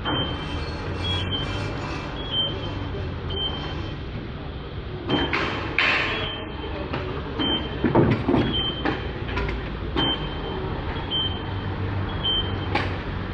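Lifting apparatus and hoist handling an engine block: a steady low machine hum, a short high warning beep about once a second, and several metal clanks and knocks in the middle and one near the end.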